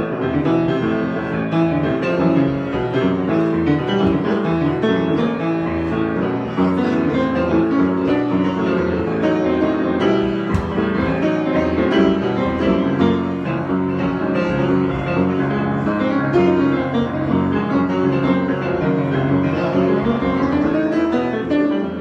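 Piano improvisation, played continuously as dense, overlapping chords and melody.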